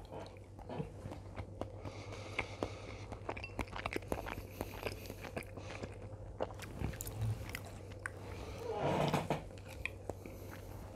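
A person chewing a mouthful of spicy fire chicken (buldak) close to the microphone, with many small wet clicks and crunches. A short hum from the voice comes about nine seconds in.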